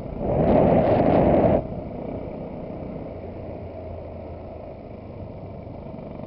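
Yamaha WR single-cylinder motorcycle engine running, loud for about the first second and a half, then dropping to a quieter, steady running sound.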